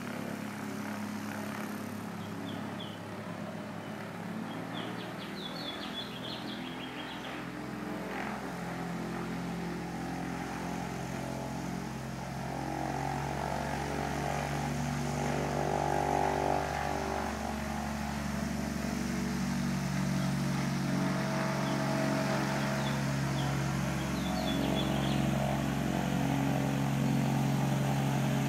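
An engine running steadily, growing louder from about halfway in, with a few short high chirps early on and again near the end.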